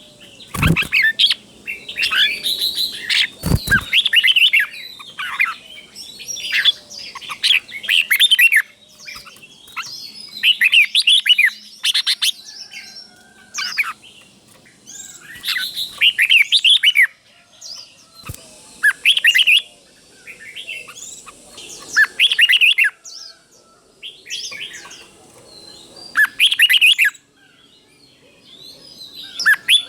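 Red-whiskered bulbul singing: short, bright whistled phrases repeated every second or two with brief pauses, the phrases doubled in pairs. A few low thumps sound among them, one near the start and one a few seconds in.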